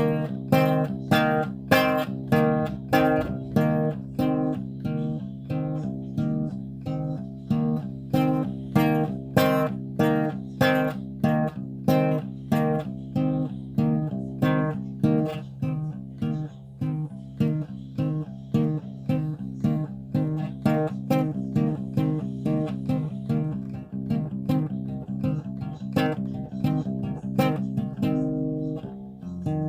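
Solo guitar music: chords plucked and strummed in a steady rhythm of about two strokes a second, with no singing.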